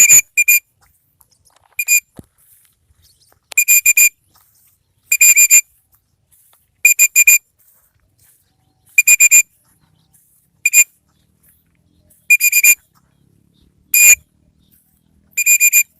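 A whistle blown in short, steady-pitched blasts about every one and a half to two seconds, some blasts doubled: the recall signal used to call free-flying pet birds back.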